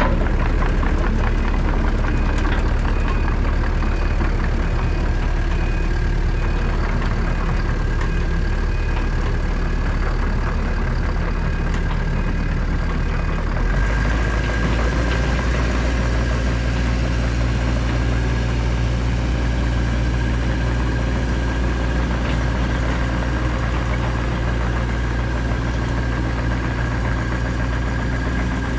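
Excavator's diesel engine running steadily with a constant high whine over it. About halfway through the engine note changes and the low hum grows stronger.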